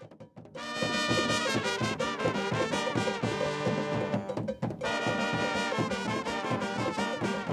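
Cuban conga band music: horns playing a melody over a steady beat of drums and percussion. It starts after a short pause and breaks off briefly before coming back in.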